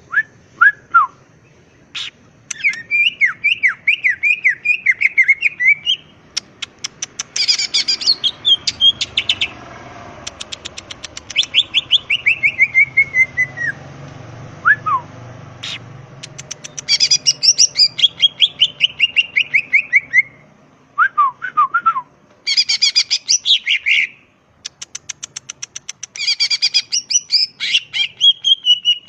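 Cucak ijo (green leafbird) singing loudly and continuously: phrases of quick whistled notes that slide downward in pitch, alternating with fast rattling runs of clicks (the 'ngetrok').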